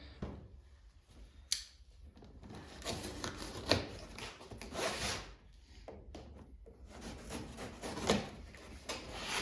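Cardboard shipping boxes being handled and opened: irregular rubbing and scraping with a few sharp knocks.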